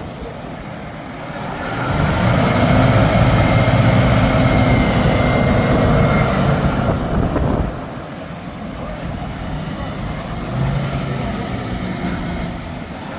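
Heavy diesel engine revs up about a second and a half in and runs hard under load for about six seconds. It then drops suddenly back to a lower, steady running.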